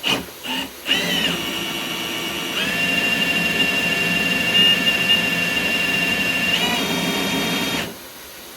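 Milwaukee M18 Fuel cordless hammer drill spinning a Flexshaft drain-cleaning cable to cut roots in a sewer line. A few short trigger blips come first, then a steady whine that steps up in speed after a couple of seconds, drops back near the end and stops.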